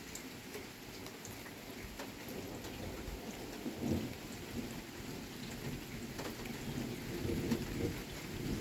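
Steady rain falling, with thunder rumbling in underneath. The rumble builds about three seconds in, is loudest about a second later, and keeps rolling to the end.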